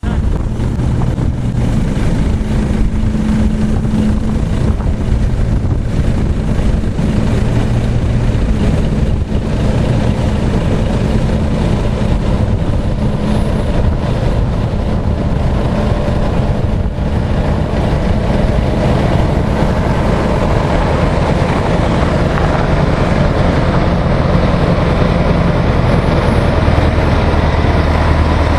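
Mack Superliner truck's diesel engine running steadily. Its sound grows fuller from about halfway through and strengthens near the end as the truck pulls away.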